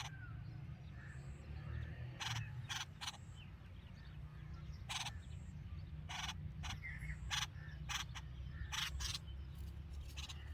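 A series of short, harsh, rasping bird calls, about fifteen of them at irregular intervals, with a few faint chirps between. A steady low rumble runs underneath.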